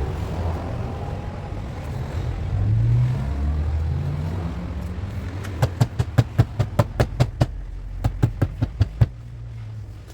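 Low rumble, then two quick runs of sharp hammer taps on car body metal, about four a second, with a short pause between them.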